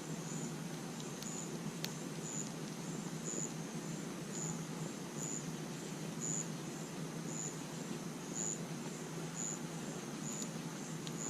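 Crickets chirping about once a second over the steady low rush of a fire pit, with a few sharp crackles from the burning wood.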